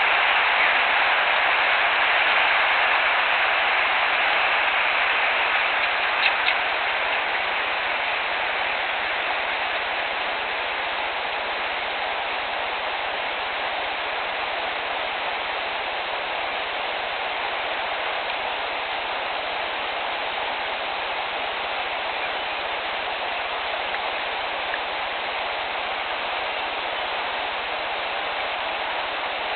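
Steady, even hiss of outdoor noise, slightly louder over the first ten seconds, with a couple of faint clicks about six seconds in.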